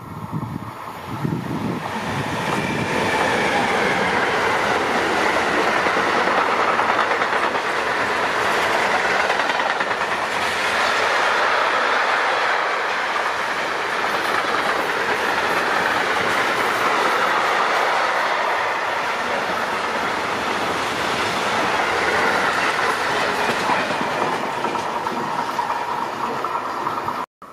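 Intermodal freight train of swap-body container wagons passing close by: a loud, steady rush and clatter of wheels on the rails. It builds over the first couple of seconds, holds for more than twenty seconds, and cuts off abruptly near the end.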